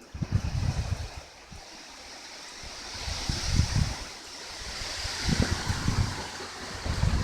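Strong wind gusting, with a rushing hiss that swells and fades in the middle and irregular low rumbling blasts of wind striking the microphone.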